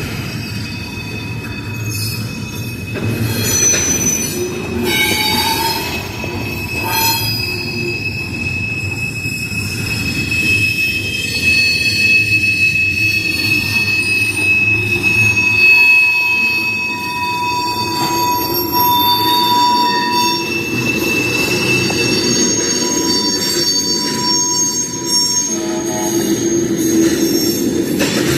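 CSX freight train cars rolling through a grade crossing. The steel wheels squeal in several steady high-pitched tones that fade in and out over the low, continuous rumble of wheels on rail.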